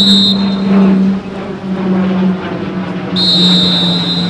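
Two shrill whistle blasts at football practice: one ending just after the start, another about three seconds in lasting about a second. Under them runs a steady low hum.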